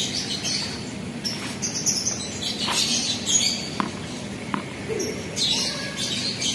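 Birds chirping repeatedly in the surrounding trees, with a few short sharp taps of a tennis ball bounced on the hard court before a serve, about a second apart midway through.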